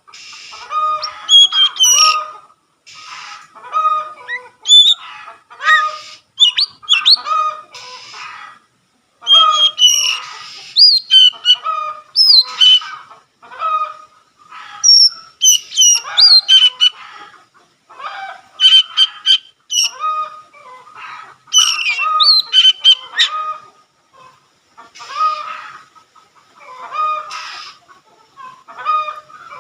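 Oriental magpie-robin singing in rapid phrases of varied whistled and scratchy notes, each phrase one to two seconds long with short pauses between them.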